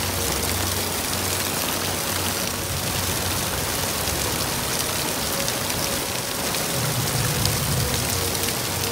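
Heavy downpour, a dense steady hiss of rain hammering on pavement, with water running off the edge of a camper's awning. Faint background music underneath.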